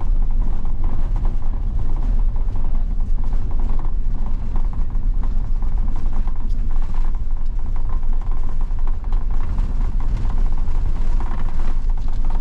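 Car driving on a snow-covered road, heard from inside the cabin: a steady low road rumble with many small clicks and rattles.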